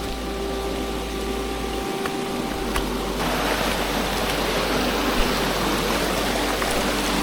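Steady rush of running water, which grows louder about three seconds in.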